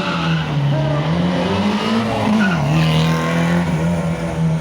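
Competition car engine revving: the pitch climbs for about two seconds, drops sharply, then holds steady at a higher idle.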